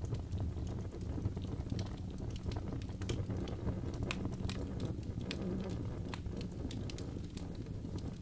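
Wood fire burning in a fireplace: a steady low rumble of the flames with frequent, irregular sharp crackles and pops from the burning wood.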